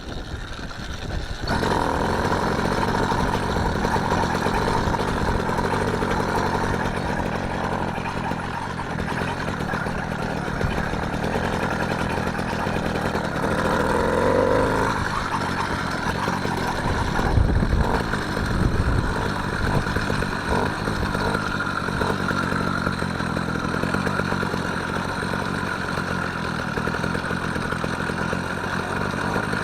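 Small engine of a motorised bicycle running steadily under way, getting louder about a second and a half in.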